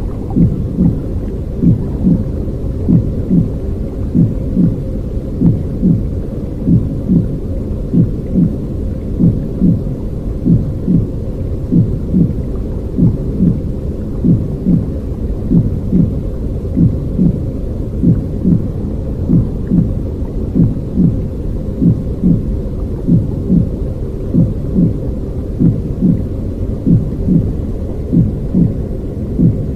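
Baby soothing sound of the womb type: a low, muffled rumbling whoosh with a regular, heartbeat-like pulse beating evenly through it.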